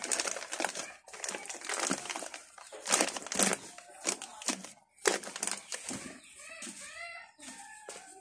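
Repeated bursts of crinkling and rustling from something being handled, with a short voice-like or animal call sound near the end.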